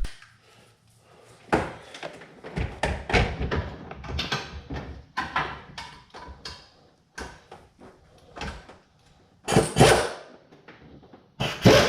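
Irregular metallic clanks and knocks of exhaust pipe, gasket and bolts being handled and fitted together at a flange, with a louder clatter near the end.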